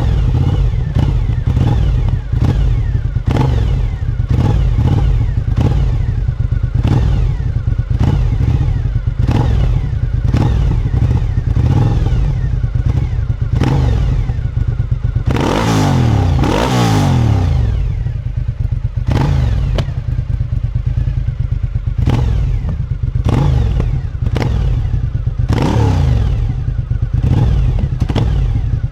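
Suzuki SV1000 V-twin engine on its stock exhaust, revved in quick repeated throttle blips with sharp pops from the exhaust, and one longer rev that rises and falls about halfway through.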